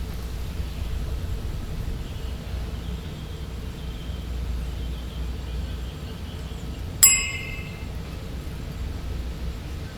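A single sharp metallic clink about seven seconds in that rings briefly, over a steady low outdoor rumble.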